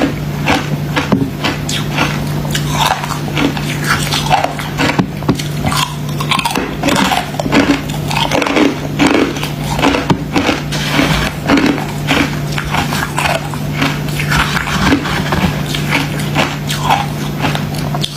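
Freezer frost ice being bitten and chewed close to the microphone: a steady, irregular run of crisp crunches and crackles, over a constant low hum.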